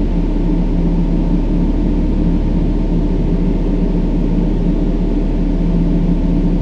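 Steady brown noise, a deep even rush weighted to the low end, with faint steady low tones running through it.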